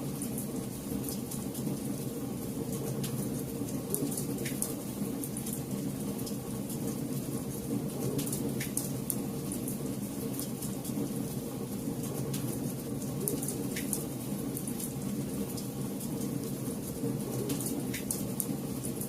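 Campfire burning: a steady low rush of flame with scattered sharp crackles and pops from the burning wood.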